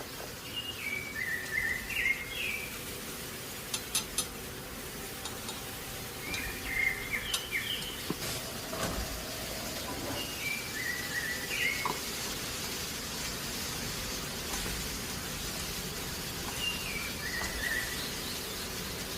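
A bird singing a short chirping phrase that steps down in pitch, four times at intervals of several seconds, over a steady hiss. A few sharp clicks come about four seconds in.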